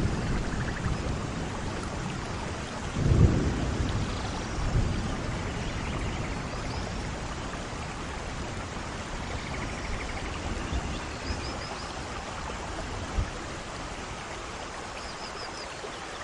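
Steady rain falling, with a short roll of thunder rumbling low about three seconds in.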